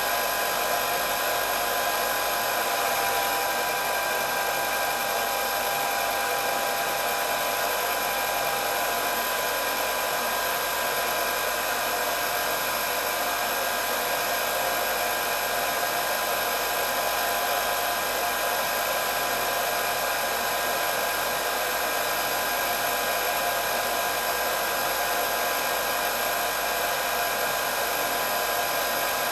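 Hair dryer running steadily: an even rush of blown air with a steady high whine from its motor and fan.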